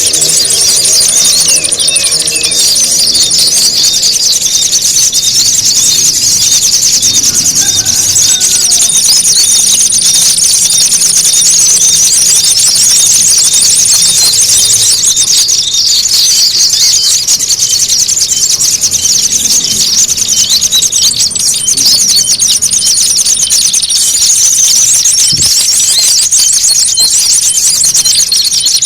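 Dense, loud chatter of many small songbirds calling at once, with rapid high-pitched twittering and a thin steady high whistle that comes and goes. This is a bird-lure (pikat) recording of small birds in an agitated, fighting frenzy, used to draw in small birds.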